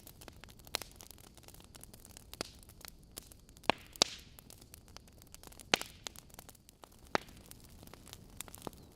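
Burning logs crackling in a wood fireplace: a soft steady hiss under frequent small irregular snaps, with a few loud pops, the loudest about four and six seconds in.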